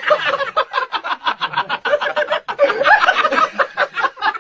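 A person laughing hard and continuously, in quick repeated bursts of several a second.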